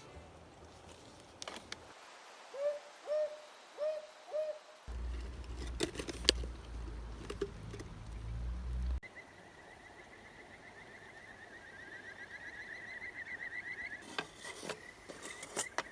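Owl hooting at night: five short hoots in quick succession about two seconds in. After a break, a steady high warbling trill runs through the second half, with scattered clicks.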